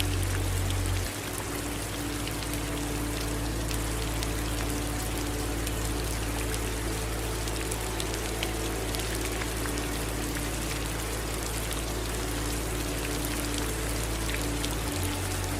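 Steady rain with running water, fine drops pattering over an even hiss. A low steady rumble sits underneath and changes about a second in and again near the end.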